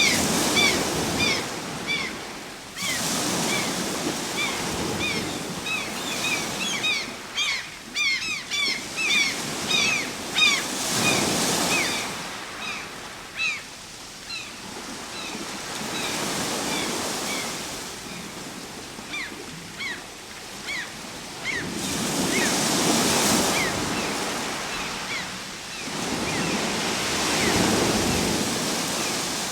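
Ocean waves breaking and washing ashore in slow swells that rise and fall every few seconds. Through most of the first two thirds, a bird calls over them in a rapid series of short, high, falling chirps.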